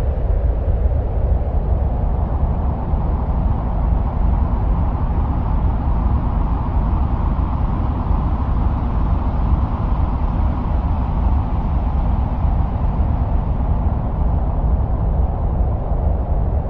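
Steady, wind-like low rumble, heaviest in the deep bass, with no breaks or separate events: an ambient recording presented as the sound of the wind on Mars.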